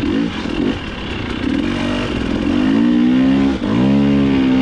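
Dirt bike engine running rough and uneven at low revs for the first couple of seconds, then the throttle opens and the revs climb and hold steady, with one brief cut about three and a half seconds in.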